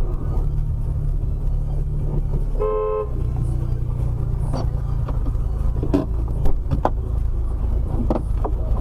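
A short single car horn honk about three seconds in, over the steady low rumble of road and engine noise inside a moving car, with a few light knocks later on.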